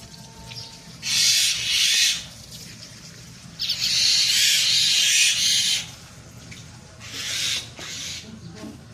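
Myna chicks giving harsh, hissing calls in three bursts, the middle one the longest at about two seconds.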